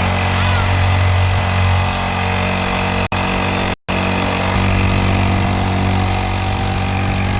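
Small kids' dirt bike engine running at a steady speed, its pitch creeping up slightly near the end. The sound drops out for an instant about three seconds in and again just before four seconds.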